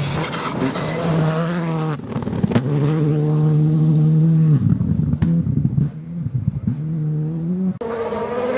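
Rally car engine at high revs, its note held steady and then cutting off and resuming about four times as it shifts gear or lifts, with a few sharp cracks in between.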